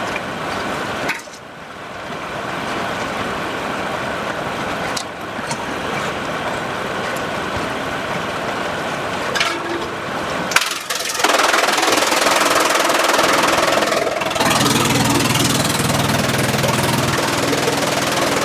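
Sawmill machinery running with a loud, steady mechanical din that changes abruptly a few times. It grows louder partway through, and near the end a steady engine hum comes in.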